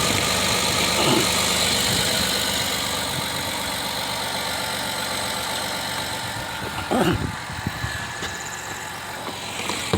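Minivan engine idling steadily after being jump-started from a depleted battery with a portable jump starter pack. There is a brief knock about seven seconds in.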